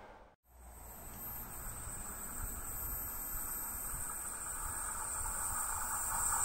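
A train approaching in the distance: a steady low rumble and hiss that slowly grows louder, over a steady high-pitched hiss. The sound cuts out briefly less than half a second in.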